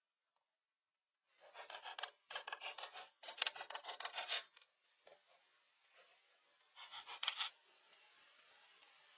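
Rapid rasping strokes of a hand tool working wood, in four bursts of about a second each; the last burst comes after a pause of about two seconds.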